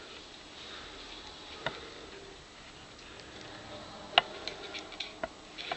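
Quiet background hiss broken by a few faint, sharp clicks, one about two seconds in and two more near the end.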